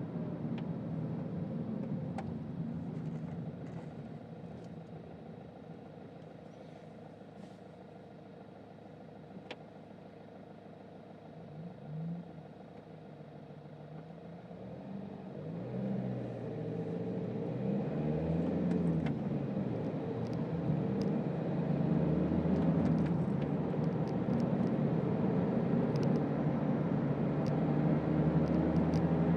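Toyota Auris 1.4 D-4D four-cylinder turbodiesel engine and road noise while driving. It is fairly quiet at first, then gets louder from about halfway as the engine pulls harder, its pitch rising and falling several times as the car accelerates through the gears.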